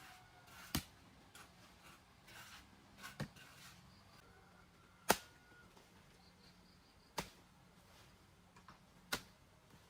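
Five sharp single knocks, about two seconds apart, the one near the middle the loudest, over a faint steady low hum.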